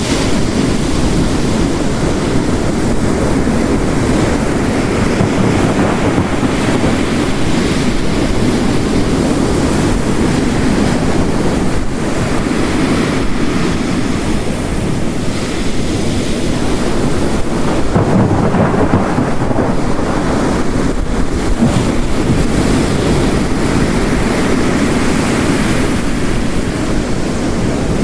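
Layered storm ambience: heavy rain and ocean waves crashing on a rocky coast, the surf swelling and falling every several seconds, over a low rumble of distant thunder.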